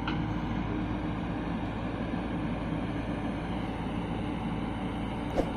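Heavy diesel machinery, an excavator and tractors, running steadily with a low drone. There is a single sharp knock about five seconds in.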